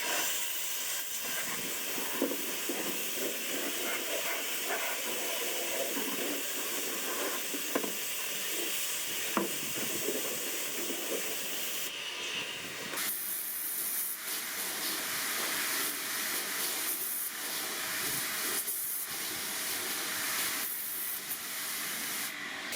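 Steady hiss of a high-pressure spray jet during the air-conditioner cleaning, with a few light clicks in the first half; about 13 seconds in it changes to a brighter, sharper hiss.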